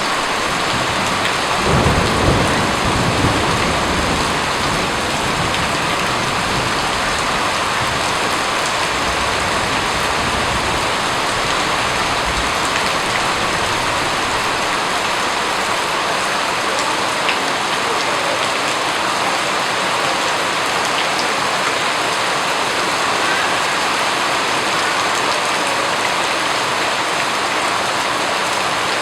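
Steady heavy rain falling, with a low roll of thunder rumbling about two seconds in and fading within a couple of seconds.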